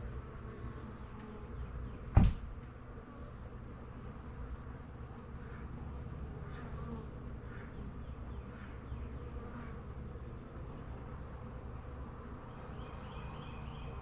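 Swarm of honey bees buzzing steadily, with one sharp knock about two seconds in.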